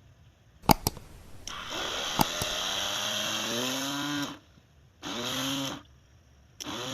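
A small electric motor on a homemade RC tractor and trolley running in three bursts, one long and two short, with a hissing whine whose pitch sags as it takes the load. Two sharp clicks come just before the first burst.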